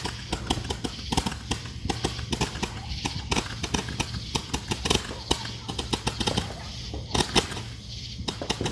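Fireworks crackling: a dense, irregular run of sharp pops and crackles, several a second.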